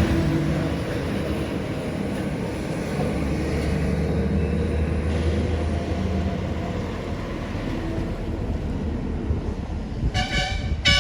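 Heavy truck diesel engine running as a loaded truck passes; near the end a vehicle horn sounds in a few short toots.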